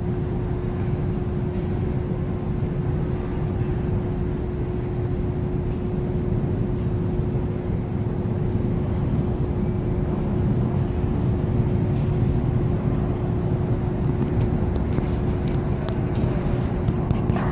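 GO Transit bilevel commuter train departing: a steady rumble with a constant hum held throughout.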